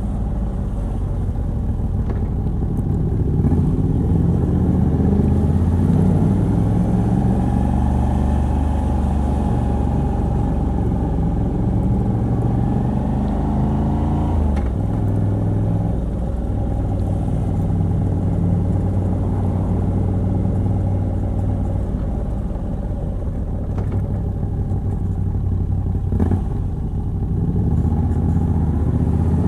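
Moto Guzzi V85TT's air-cooled transverse V-twin, fitted with a decat pipe, running under way on the road. The revs rise steadily for about ten seconds, drop suddenly as the rider shifts gear, then hold steady at a cruise. They dip briefly twice near the end and then start rising again.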